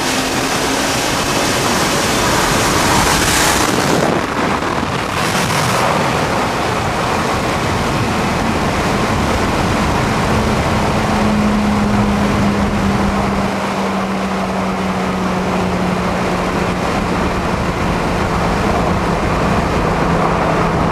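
Loud, steady wind and road rush from a car at high speed, with a low engine drone that slowly drops in pitch through the second half as the car slows.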